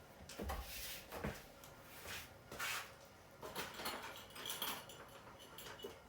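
Hands working with tubing and tools: a series of short rustling scrapes and light knocks, about six in all.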